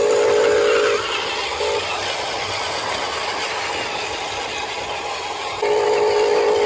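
Electric motor of a Huina 1573 RC dump truck whining at a steady pitch. It cuts out about a second in, blips briefly, and starts again near the end, with an even hiss in between.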